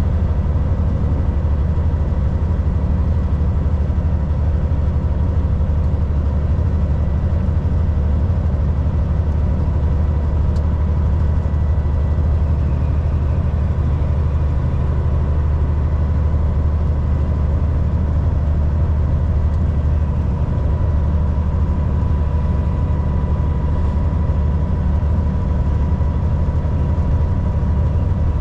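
Volvo VNL 760 semi truck cruising on the highway: a steady, heavy diesel engine and road rumble with a thin, steady high whine running through it. There is one faint tick about ten seconds in.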